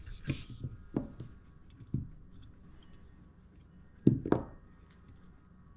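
Wire cutters snipping wires to length, with the clicks and small knocks of handling the parts; a few sharp snaps, the loudest about four seconds in.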